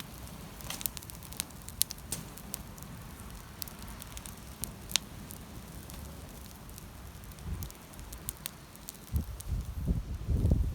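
Wood fire crackling in the open, with sharp pops scattered through it. Heavier low rustling and thumps come in near the end.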